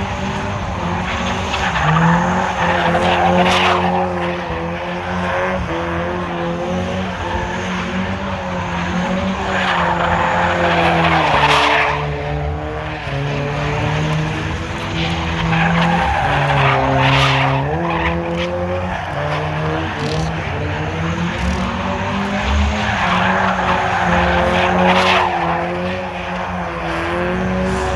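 Car engine running hard with tyres squealing, the squeal swelling in bursts every six to eight seconds while the engine pitch rises and falls.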